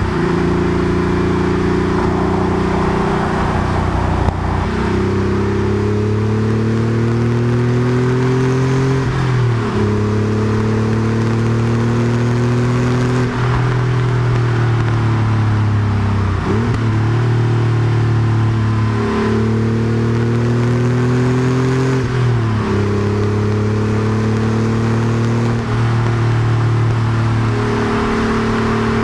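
Porsche 964 Carrera 2's air-cooled 3.6-litre flat-six running under way through a centre straight muffler. The engine note climbs slowly and dips briefly about every three to four seconds, over a layer of road noise.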